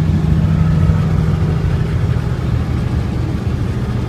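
Vehicle driving at speed, heard from inside the cab: a steady low engine and road drone, its pitch dropping slightly about two seconds in.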